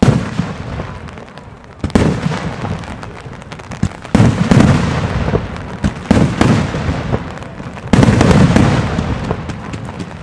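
Mascletà fireworks barrage: rapid volleys of launches and reports come in loud surges that start abruptly at the beginning and again about two, four and eight seconds in. Each surge trails off into a scatter of crackling pops.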